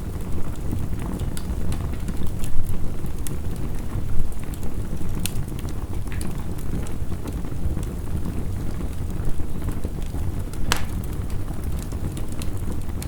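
Heavy rain falling steadily as a dense, low rushing noise, over a crackling wood fire whose scattered sharp pops sound throughout, one louder pop near the end.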